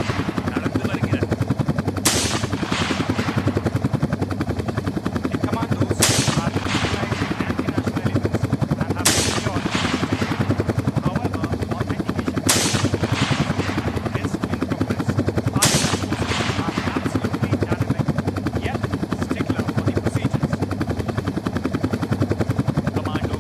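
Helicopter rotor chopping steadily, with five sharp bangs about three to four seconds apart, each fading out over about a second.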